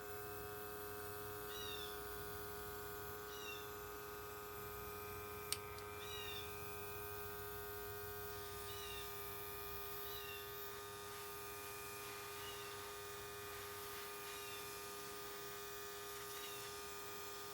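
Electric paint sprayer running steadily while spraying shellac, a constant hum with a steady pitch. Faint short chirps recur every second or two over it, with a single sharp click about five seconds in.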